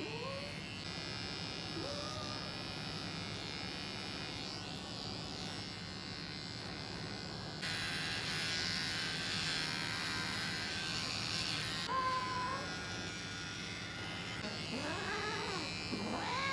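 Electric pet hair clippers buzzing steadily as a cat's coat is shaved, growing louder and harsher for about four seconds midway through. The cat gives a few short rising cries, one about twelve seconds in.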